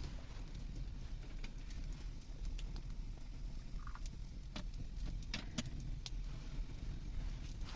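Scattered sharp clicks and crackles at irregular intervals over a steady low rumble.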